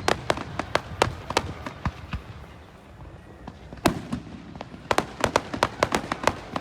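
Fireworks going off: a quick run of sharp cracks and pops, a lull of a second or two, then a single louder bang and another fast string of cracks.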